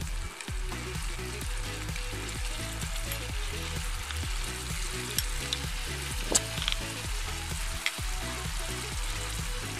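Duck meat sizzling as it fries in a pan, a steady crackling hiss. Two sharp clicks come partway through, the first the louder.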